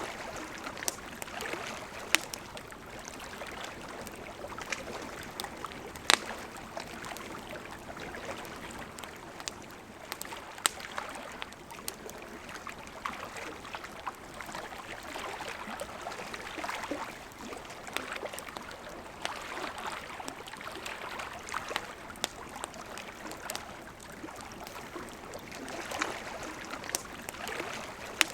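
Campfire crackling, with sharp pops every few seconds, over the steady rush of a flowing river.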